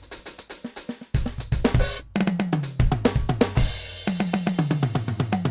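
NUX DM8 electronic drum kit played through its sound module: quick soft snare strokes, then a hard hit about a second in, and tom fills that step down in pitch from the high toms to the floor tom, with bass drum and a cymbal crash between the fills.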